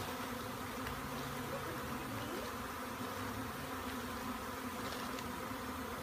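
A large swarm of honey bees buzzing in a steady, even drone.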